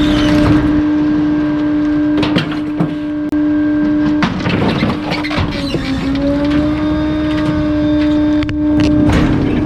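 Bulky-waste garbage truck's packer running with a steady, non-stop hydraulic hum, which sags in pitch for a moment about halfway through and then recovers as it takes load. Scattered cracks and knocks of crushed material come through it.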